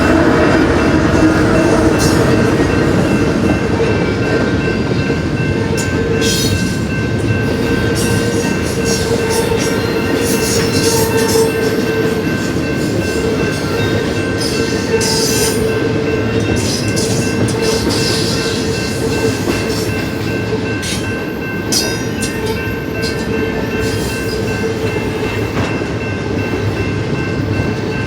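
Union Pacific intermodal freight train rolling past: a steady rumble of wheels on rail, with repeated clicks over the rail joints and a faint steady ringing tone.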